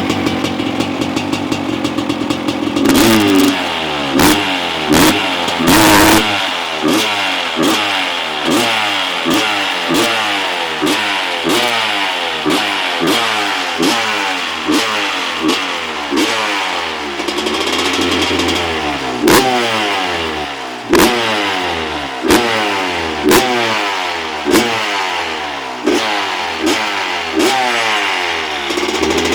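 250 cc two-stroke motocross engine idling, then blipped over and over, about once a second: each blip rises sharply and falls back, with one longer hold at higher revs about two thirds of the way through.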